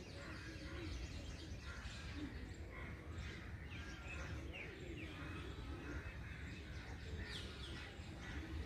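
Several small birds chirping and trilling in quick, scattered short calls over a steady low outdoor rumble.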